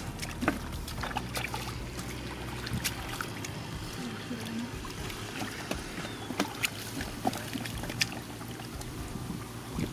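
Shallow water sloshing and splashing, with many short sharp splashes and clicks scattered through, as hands and feet work in a flooded rice field.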